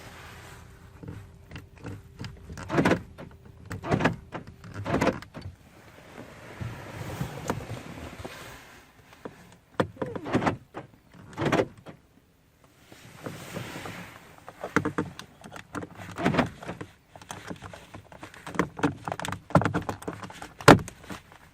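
Irregular clicks and clunks from an Opel Vectra C's door latch and central-locking mechanism being worked, about a dozen separate knocks with short pauses between them.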